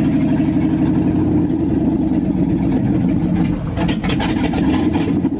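1970 GMC truck engine running loud on open exhaust manifolds with no exhaust pipes fitted. There is a brief drop in level a little before the four-second mark, and a rougher, crackly note after it.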